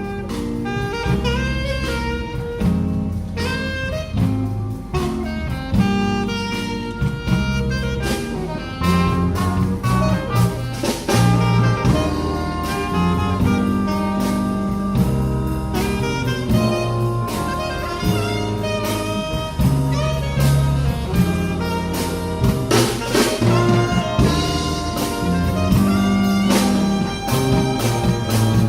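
Community big band playing jazz live. Saxophone lines carry the tune over bass and drum kit, with cymbal strikes keeping a steady beat.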